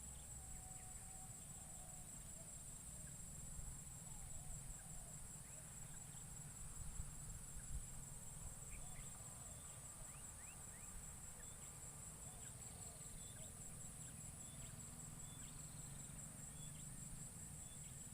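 Forest insects droning in a steady high-pitched trill, with faint scattered bird chirps and a low rumble underneath.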